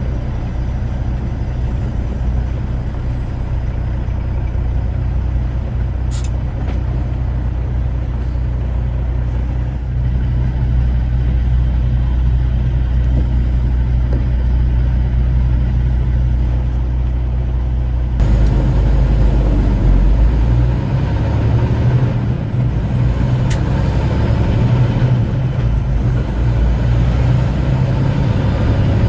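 Semi-truck running down the road: a steady low engine drone with road noise, growing louder and fuller about two-thirds of the way through.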